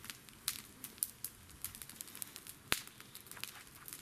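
Irregular light crackling made of many small clicks, with one sharper, louder click about two and a half seconds in.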